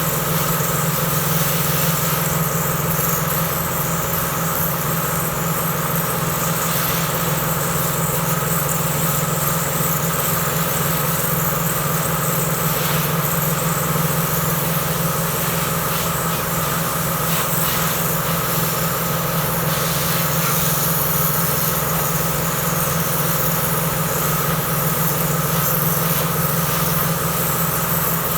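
A motor running steadily with an even hum and no change in speed.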